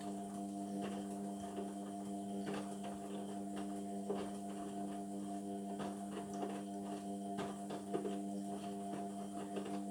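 Indesit washing machine running partway through a synthetics wash, a steady electrical hum with light irregular ticks and knocks. It cuts off sharply just after the end.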